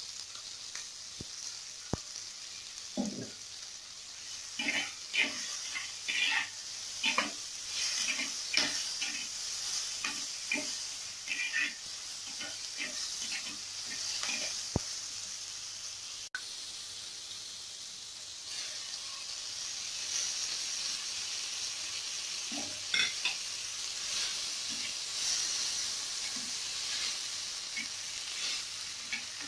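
Chopped onions, tomatoes, garlic and chillies sizzling in oil in a clay pot, with a steady high hiss. A steel slotted spatula scrapes and stirs them in quick runs of strokes, busiest in the first half.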